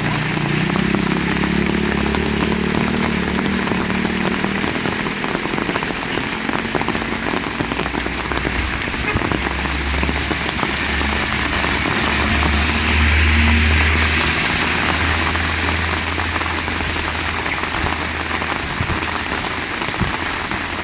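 Heavy rain falling steadily, with a low hum underneath that swells about two-thirds of the way through.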